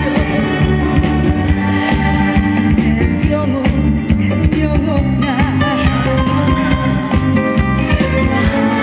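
A woman singing with vibrato over loud backing music with a steady bass beat and guitar.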